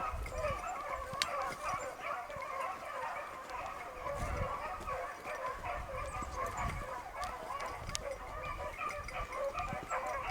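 A pack of beagles baying on a rabbit's trail, many voices overlapping without a break.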